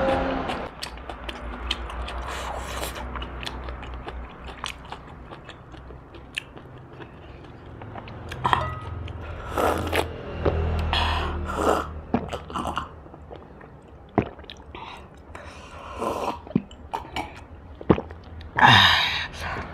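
Close-up eating sounds of roast duck: biting, chewing and crunching with wet mouth noises, and a louder mouth sound near the end.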